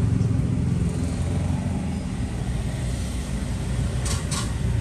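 Steady low background rumble. About four seconds in come two sharp clicks a third of a second apart, the lid of a Zippo lighter being flicked open and snapped shut.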